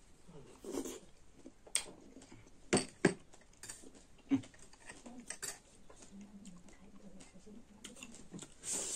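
Close-miked mouth sounds of chewing soft mulberries, with scattered light clicks of metal spoons against glass bowls.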